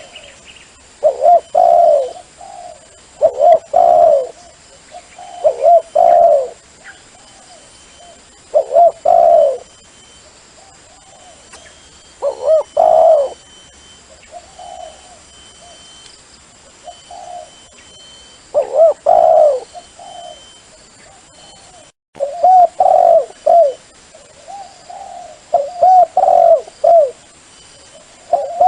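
Dove cooing: short phrases of coos repeating every two to three seconds, with a longer gap around the middle. It is a dove call used to lure wild doves to a decoy.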